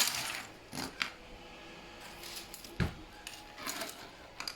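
Printed plastic dragon models being handled and set down on a surface: scattered light clicks and rattles, with one louder knock a little under three seconds in.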